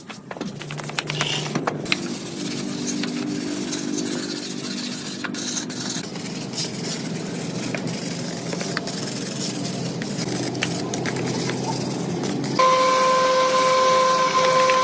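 A steady hiss, like air or liquid spraying from a nozzle. Near the end a power tool's motor starts and runs with a steady whine.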